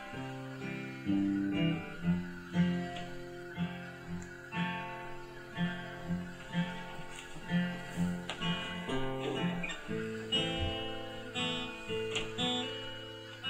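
Acoustic guitar playing the instrumental introduction of a folk song, plucked and strummed chords in a steady rhythm with no singing yet.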